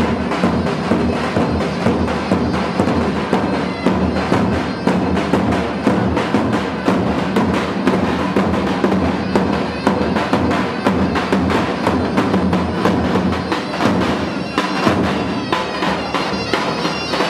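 Loud traditional dance music: a drum beating a fast, steady rhythm under a shrill, bagpipe-like reed wind instrument.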